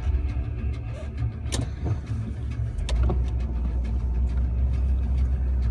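Jeep Wrangler's engine running, heard from inside the cabin as a steady low rumble, with a few sharp clicks and knocks about one and a half to three seconds in.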